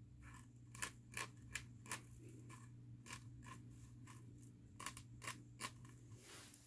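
Tweezers clicking shut as hairs are plucked from a frontal wig's lace: a dozen or so faint, sharp clicks at an irregular pace, over a low steady hum.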